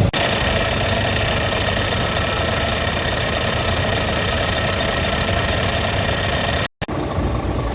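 Scania R tractor unit's diesel engine running steadily. It breaks off to silence for a moment near the end, then carries on.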